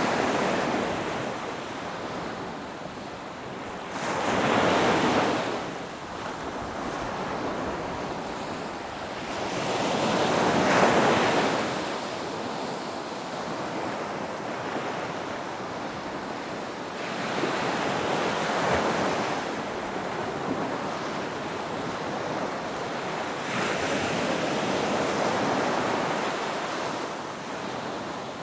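Ocean surf breaking on a beach: a continuous wash of water with a wave crashing and washing up the shore about every six seconds, some louder than others.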